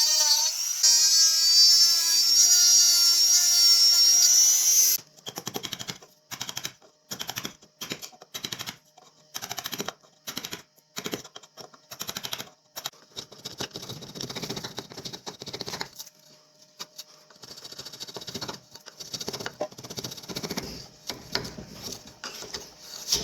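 A small power tool runs with a steady high whine and cuts off abruptly about five seconds in. It is followed by repeated short hand-worked scraping strokes, roughly one or two a second.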